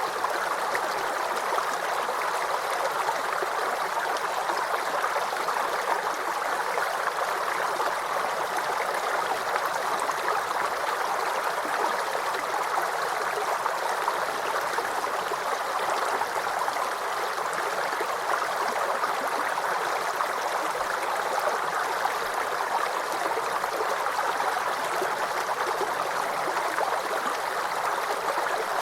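Small stream running steadily over stones, babbling and gurgling.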